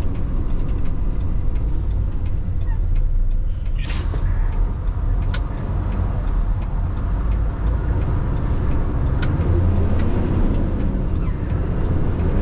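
2003 Mitsubishi Fighter dump truck's 7.5-litre common-rail diesel engine running as the truck drives under a heavy load, with a brief hiss about four seconds in and the revs climbing in the last few seconds.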